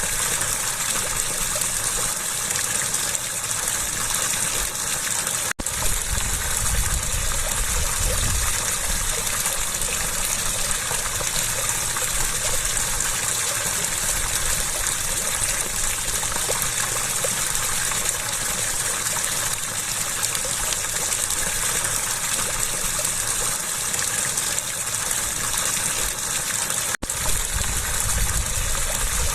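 Water rushing steadily, a constant gush. It cuts out for an instant twice, about five and a half seconds in and near the end, and each time comes back with a stronger low rumble for a few seconds.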